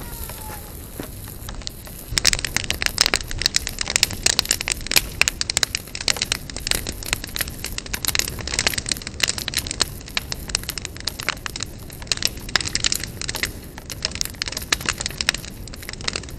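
Large open fire crackling and popping: quiet at first, then from about two seconds in a dense, steady run of sharp crackles and pops.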